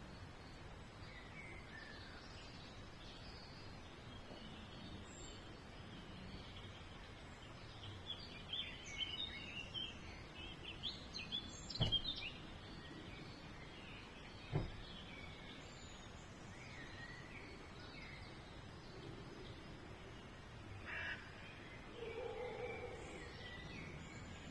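Small birds chirping and twittering faintly, busiest from about a third of the way in to halfway. Two sharp clicks, a couple of seconds apart, come around halfway through.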